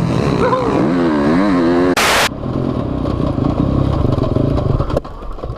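Motocross bike engine revving in rising-and-falling blips about a second in, then running with a steady rumble. It drops away near the end as the bike stalls. A short loud rush of noise, like wind hitting the microphone, comes about two seconds in.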